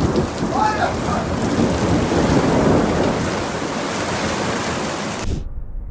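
Heavy rain pouring down during a thunderstorm, with a low rumble of thunder and a brief shout about half a second in. The storm sound cuts off suddenly about five seconds in, leaving a faint low rumble.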